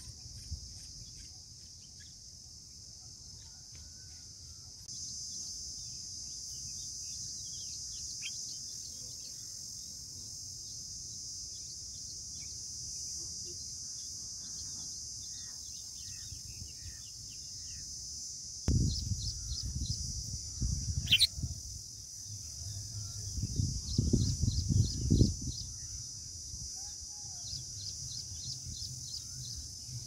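Faint scattered bird chirps over a steady high hiss. Loud low rumbling bumps come in about two-thirds of the way through and again a few seconds later.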